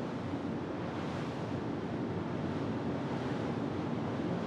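Steady rushing noise of wind and sea waves, even and unbroken.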